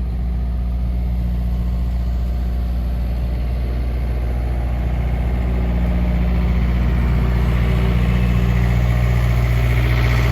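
An engine idling steadily with a low, even hum that grows slowly louder.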